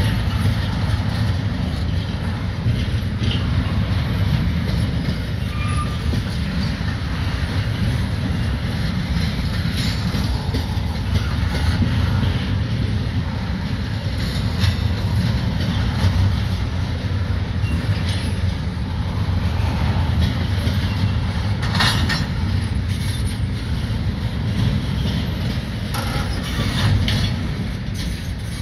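Double-stack intermodal freight train's well cars rolling past: a steady low rumble of steel wheels on rail, with scattered clicks and clanks.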